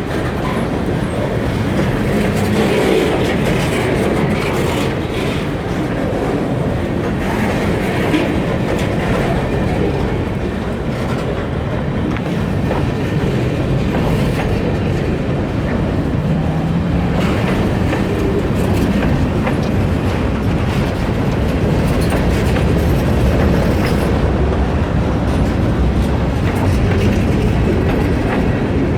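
Freight train rolling past steadily, its wheels clattering over the rail joints.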